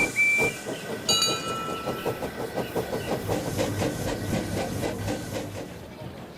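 Steam train passing: a short whistle toot, then a longer whistle with several notes sounding together about a second in, over the steady rhythmic beat of the train running, which fades away near the end.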